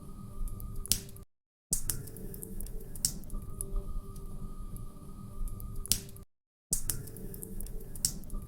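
Log fire crackling in a fireplace, with irregular sharp pops over a low rumble. The sound cuts out to silence twice, briefly.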